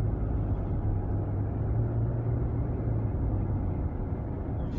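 Steady road and engine rumble inside a moving car, with a low steady hum under it.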